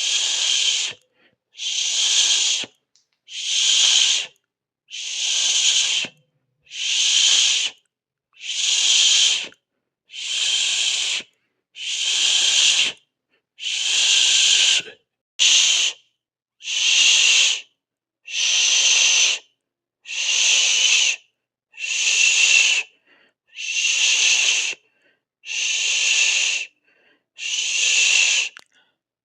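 Long breathy 'shhh' hisses, made by mouth, about a second each and repeated roughly every 1.7 seconds with short silences between.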